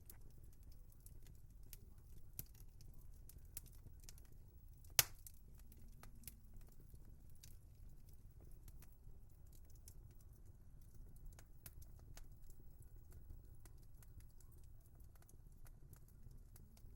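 Wood fire crackling: scattered small pops and snaps over a low, steady rumble, with one sharp, loud pop about five seconds in.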